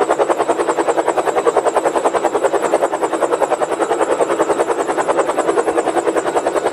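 Steady, fast rhythmic chopping like a helicopter's rotor, about ten beats a second, even throughout.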